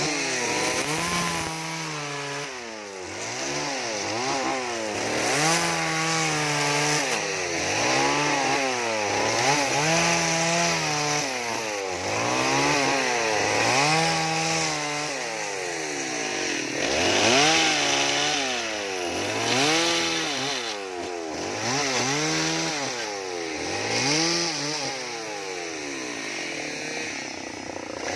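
Chainsaw carving into wood, its engine revving up and dropping back again and again, about once every two seconds, with each cut.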